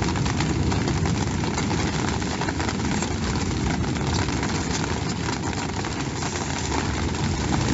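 Storm wind buffeting the microphone with a steady low rumble, with rain ticking throughout.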